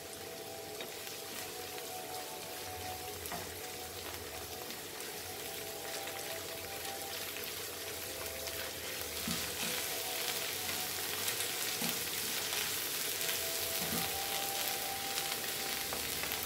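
Sliced onions and ginger-garlic paste frying in hot oil in a pan, sizzling and crackling steadily and growing louder about halfway through.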